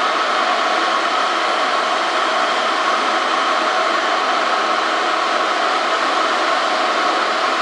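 Kettle heating water: a steady rushing hiss that does not change.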